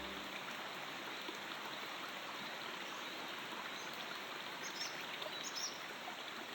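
Steady running stream water, with a few short bird chirps about five seconds in.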